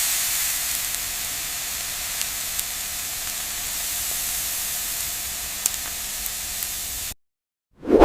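A steady hiss that cuts off suddenly about seven seconds in, with a few faint ticks over it.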